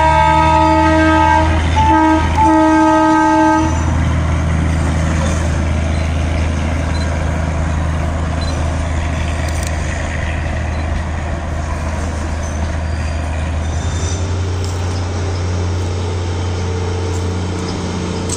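Darjeeling Himalayan Railway toy train sounding a long horn blast, broken twice for a moment, which stops about three and a half seconds in. The train's low running rumble carries on as it moves away. A second steady drone joins for the last few seconds.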